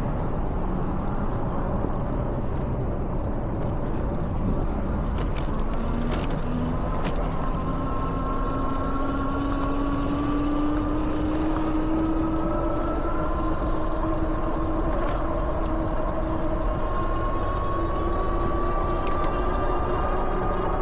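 E-bike electric motor whining and slowly rising in pitch as the bike picks up speed, over a steady rumble of wind and tyre noise.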